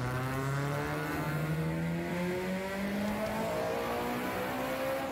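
Honda Civic's four-cylinder engine under load on a chassis dyno, its revs climbing steadily through a pull after a step up in pitch about half a second in.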